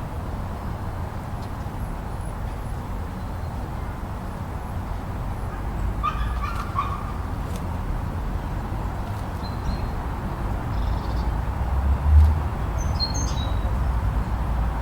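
Steady low rumble of blizzard wind, with a few short animal calls, one about six seconds in and faint high chirps later. There is a brief low thump about twelve seconds in.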